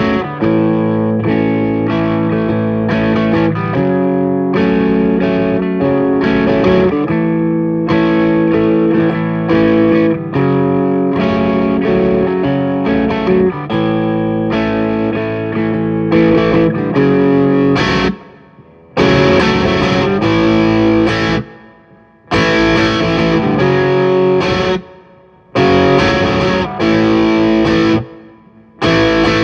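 Electric guitar played through distortion effects, strumming and holding chords that change about every second; in the last third it stops short several times and comes back in.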